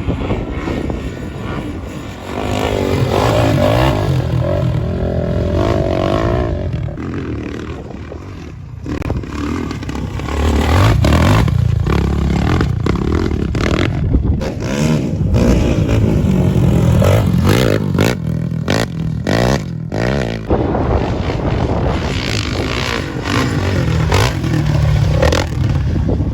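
Off-road motorcycle engines revving up and down as the bikes ride, with many short knocks and clatter mixed in.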